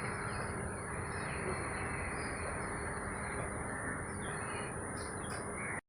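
Outdoor ambience: a few faint, short bird chirps over steady background noise and a steady high-pitched whine. The sound cuts off suddenly near the end.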